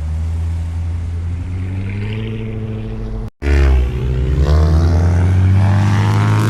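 Car engine running with a steady low drone; after a brief break about three seconds in it is louder, its pitch rising and falling as it is revved.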